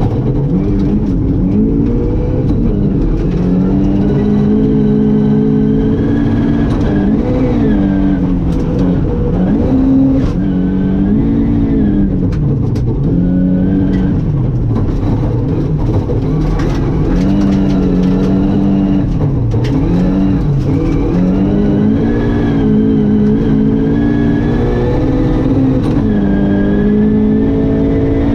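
Ford Escort RS 2000 rally car's engine, heard from inside the cockpit, revving hard at full throttle. Its pitch climbs and then drops sharply, over and over, at gear changes and lifts.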